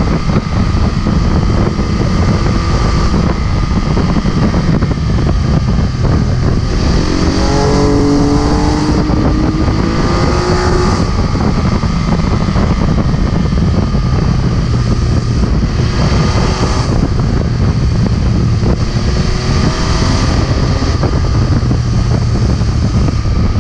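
MV Agusta F3 675's inline three-cylinder engine running at road speed, with heavy wind rushing over the microphone. About a third of the way in, the engine note climbs for a few seconds as it accelerates.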